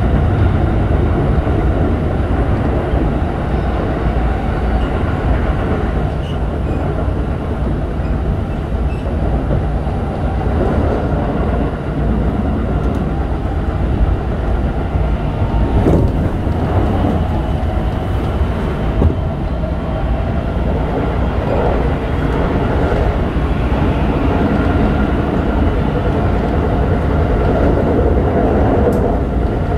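Running sound of a Keikyu 1000 series electric train heard from inside the passenger car: a steady rumble of wheels on rail and car-body noise, with a few brief sharp clicks.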